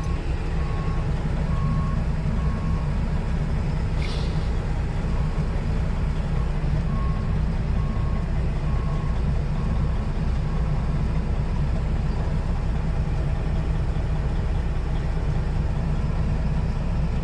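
Semi truck's diesel engine running steadily, heard from the cab. Over it, a reversing alarm beeps about once a second for the first eleven seconds or so, then stops. There is a short click about four seconds in.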